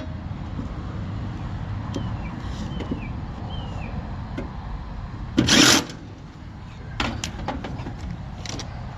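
Air-conditioner condenser fan running with a steady low hum while the compressor stays off, its overload still tripped open from overheating. A short loud rushing noise comes about five and a half seconds in, and a few sharp knocks about seven seconds in.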